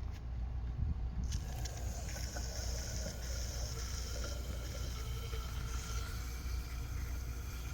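Aerosol can of foam carburetor cleaner hissing as it is sprayed through an extension nozzle into a spark plug hole, starting about a second in and running in stretches with short breaks, over a steady low rumble.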